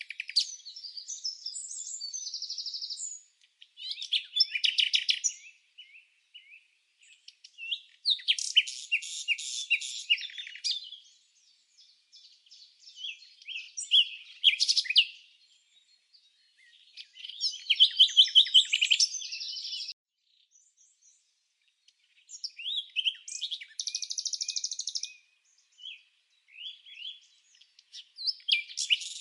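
Songbird singing: high chirps and rapid trills in phrases a second or two long, with short pauses between them.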